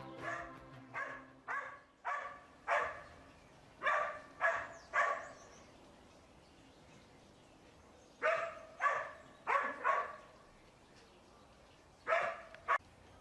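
A dog barking in bouts of short barks (five, then three, then four, then two) with quiet pauses between.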